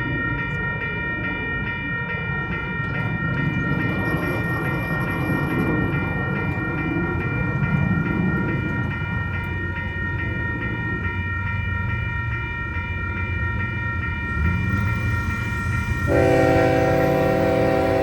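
BNSF freight train passing with its diesel locomotives rumbling, a steady high-pitched tone held throughout. About sixteen seconds in, the locomotive horn sounds and the sound grows louder.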